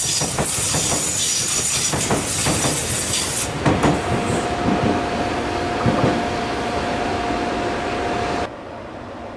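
Coaches of the 'Seven Stars in Kyushu' cruise train rolling past, their wheels clacking over the rail joints with a high squeal. After about three and a half seconds the train has passed, and a steady single high tone carries on until a sudden drop to a quieter hum near the end.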